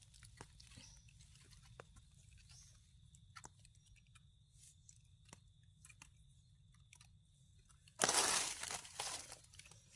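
Faint scattered ticks, then about eight seconds in a sudden loud crunching and rustling of dry forest-floor litter, lasting under two seconds.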